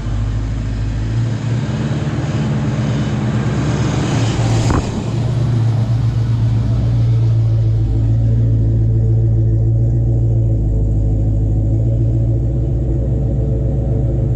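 Car engine running steadily with an even low hum, and a brief sharp noise about five seconds in.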